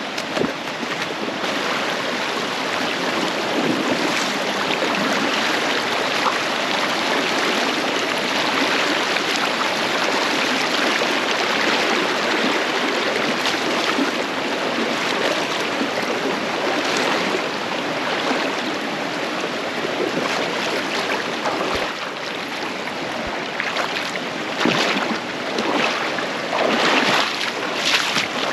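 Creek water rushing steadily over rocks, a loud even wash, with a few louder surges near the end.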